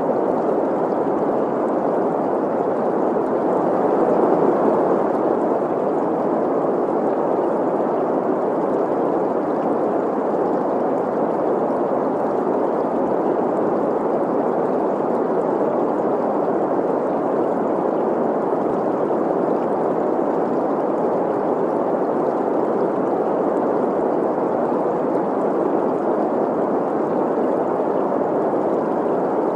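Steady green noise, an even hiss centred around 500 Hz, mixed with the running water of a stream, swelling slightly about four seconds in.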